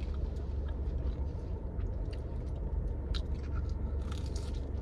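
A person chewing crunchy breaded jalapeño poppers close to the microphone, with scattered short crunches and mouth clicks, clustered near the end, over a steady low rumble.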